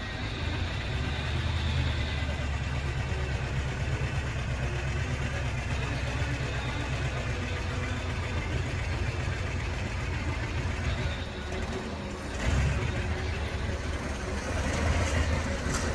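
Car engines running at low speed as cars roll in, a steady low engine sound that dips about eleven seconds in and comes back stronger a second later, louder again near the end.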